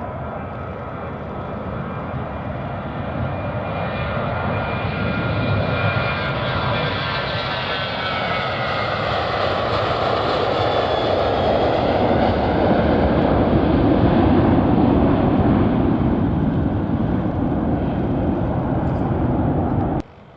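Airliner engines growing louder as the aircraft passes, with a whine that slides down in pitch as it goes by. The noise stays loud, then cuts off suddenly near the end.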